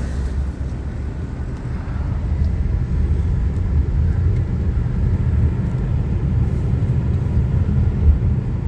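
Steady low road and engine rumble from inside a moving car.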